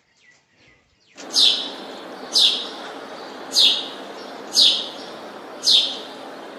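A bird calling over and over: a short, high chirp that falls in pitch, repeated about once a second, over a steady background hiss. The calls begin about a second in.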